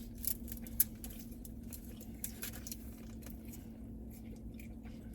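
Soft eating sounds: scattered small clicks and crackles of chewing and of food wrappers being handled, thinning out after the first second or two, over a steady low electrical hum.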